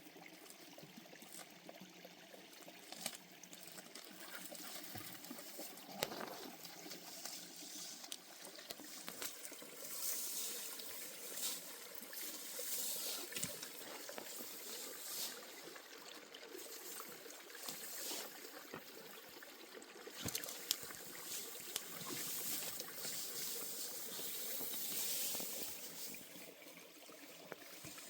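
Water trickling and splashing continuously, rising and falling in strength, with a few light knocks.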